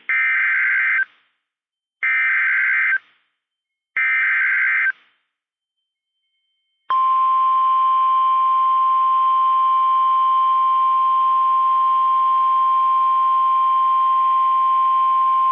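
NOAA Weather Radio SAME alert header: three one-second bursts of warbling digital data tones, two seconds apart. After a short silence comes the steady, single-pitch 1050 Hz Warning Alarm Tone, held for about nine seconds. It signals that a warning message follows.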